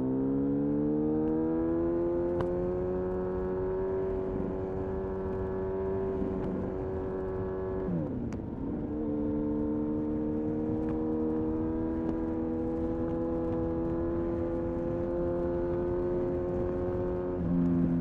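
2000 Honda CBR-929RR Fireblade's inline-four running through an Erion full racing exhaust under way, ridden while breaking in a new clutch. It pulls up in pitch at the start and holds a steady note. Revs drop sharply at a gear change about eight seconds in, and there is another change near the end.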